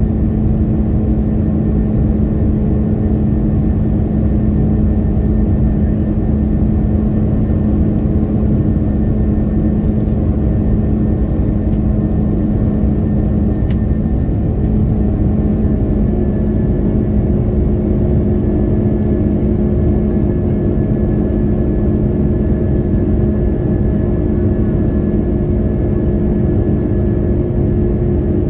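Airliner cabin noise in flight: the steady rush of air and jet engines with a constant hum of several tones, one of which grows stronger a little past halfway.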